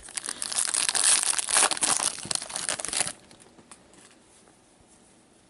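Trading-card pack wrapper being crinkled and torn open by hand for about three seconds, then it stops.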